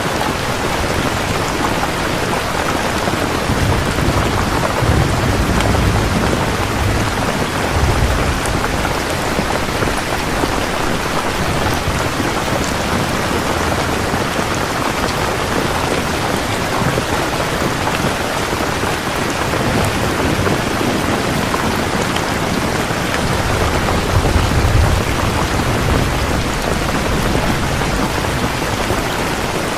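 Steady rain, with low rumbles of distant thunder a few seconds in and again near the end.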